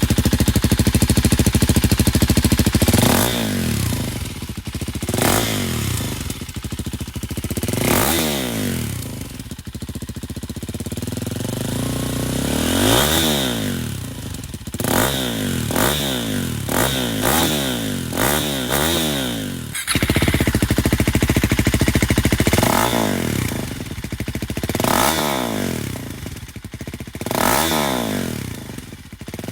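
KTM Duke 250 single-cylinder engine through a GPR aftermarket exhaust, revved again and again, its note rising and falling with each throttle blip.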